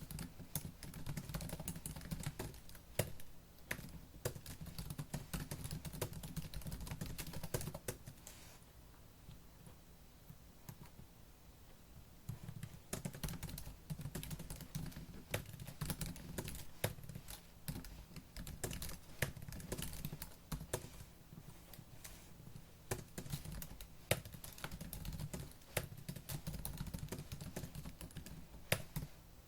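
Fast typing on a laptop keyboard, a dense stream of key clicks with the odd louder keystroke; the typing eases off for a few seconds about a third of the way in, then picks up again.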